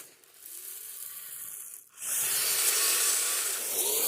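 Electric radio-controlled tracked snow vehicles (Kyosho Blizzard) running on snow: a hiss from the tracks in the snow with a wavering motor whine. It is quieter for the first two seconds, then the hiss gets louder, and the whine comes back near the end.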